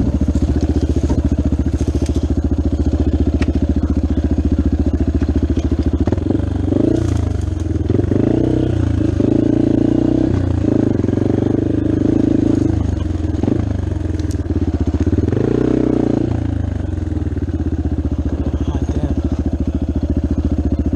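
Dirt bike engine running under way, steady at first, then rising and falling in pitch several times through the middle as the throttle is opened and closed, before settling back to a steady drone near the end.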